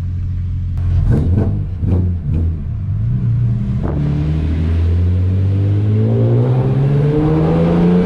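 Car engine running, with a few short sharp sounds about a second in, then accelerating steadily, its pitch rising through the last few seconds.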